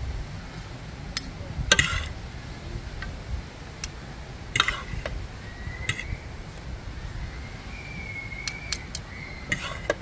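Scattered sharp clinks and knocks of dishes and cutlery over a steady low background rumble.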